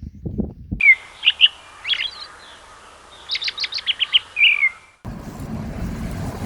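A songbird chirping: a few short chirps and downward-sliding whistles, then a quick run of rapid notes, cutting in and out abruptly. From about five seconds in, a low steady rumble like wind on the microphone takes over.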